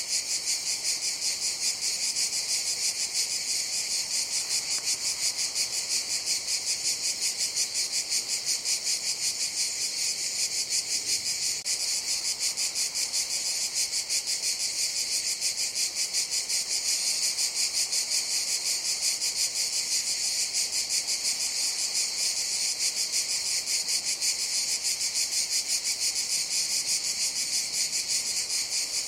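Cicadas buzzing in a continuous shrill chorus with a fast, even pulsing, steady in level throughout.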